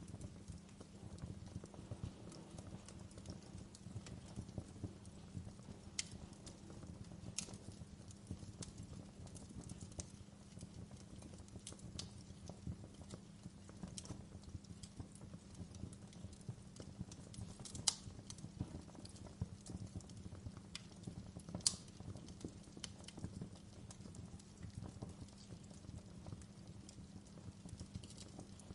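Wood fire crackling in a fireplace: a steady low rumble of burning with dense small crackles, and a few sharper, louder pops scattered through, the two loudest a little past the middle.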